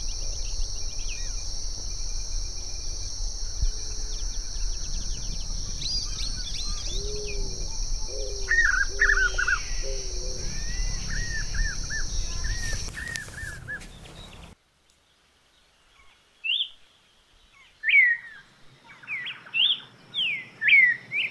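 Spot-backed puffbird (chacurú) calling: rows of short, arched, repeated notes, set over a steady high buzz of insects that stops about 13 seconds in. After a short gap, a red-crested cardinal starts singing near the end with short, sharp, falling whistled notes.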